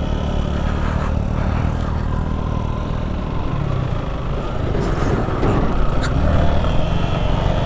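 Motorcycle engine running steadily under load while the bike climbs a steep hill road, with a continuous low drone throughout.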